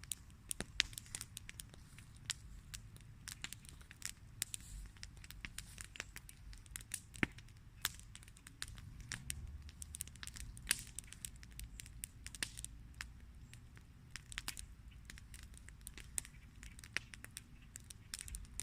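Wood campfire crackling: irregular sharp snaps and pops, several a second, over a steady low rumble.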